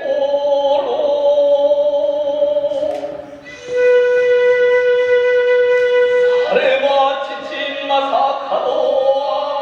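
Kagura music: a bamboo flute playing a slow melody, holding one long steady note in the middle before moving on again.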